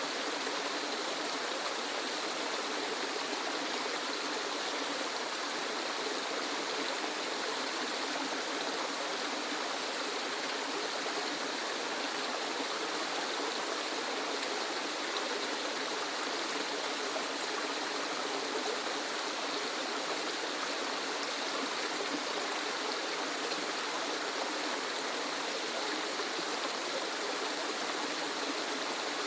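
Waterfall: a steady, even rush of falling water with little deep rumble, unchanging throughout.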